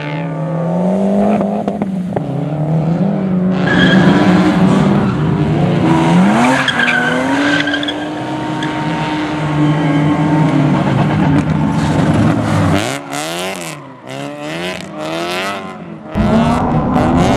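Rally car engines at full throttle, the revs rising and falling through gear changes, with tyre squeal. Near the end the revs swing quickly up and down with crackling. About a second before the end a louder, steadier engine sound starts suddenly.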